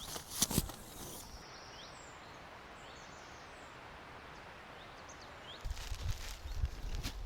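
Outdoor forest ambience: a steady hiss with a few faint, short bird chirps. A couple of sharp crunching steps come near the start, and low thumping handling or footstep noise begins about three-quarters of the way through.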